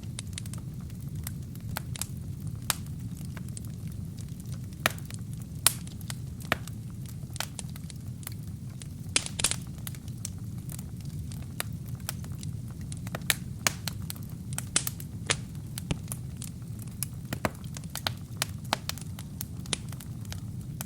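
Wood fire burning in a fireplace: a steady low rumble of flames with irregular sharp crackles and pops from burning kindling, a few of them louder, and a short hissing flurry of crackles about nine seconds in.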